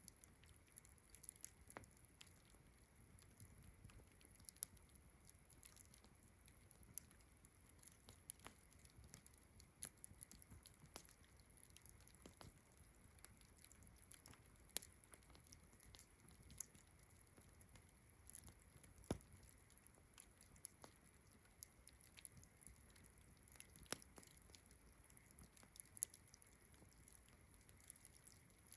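Campfire crackling, with irregular sharp pops and snaps of burning wood, over a faint steady high chirring of crickets.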